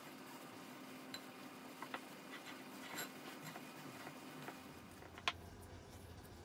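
A scatter of light clicks and taps over a faint steady hum, with one sharper click about five seconds in.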